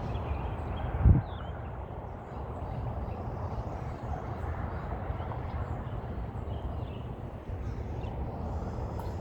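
Outdoor ambience: a steady low rumble with faint, short bird chirps scattered through it, and one loud thump about a second in.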